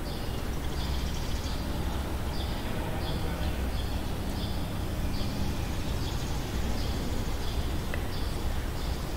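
Short high chirps repeating about twice a second, typical of small birds, over a steady low background noise.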